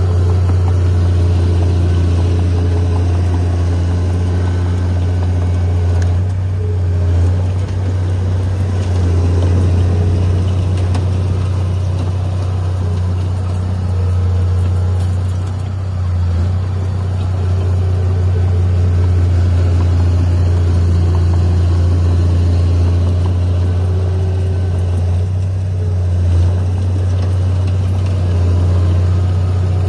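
Heavy diesel earthmoving machinery engine running steadily, a deep drone with brief small dips in level.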